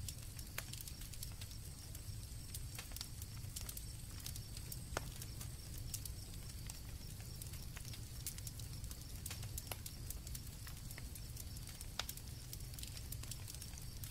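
Campfire crackling with irregular sharp pops over a low rumble of burning, while crickets trill steadily in the background at a high pitch, one of the trills dropping out about halfway through.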